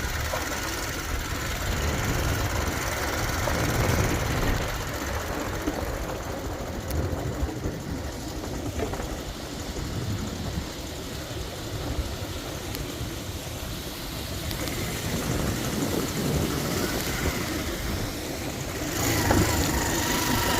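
Motorcycle engine running during a ride, with a steady rumble and road noise, getting louder near the end.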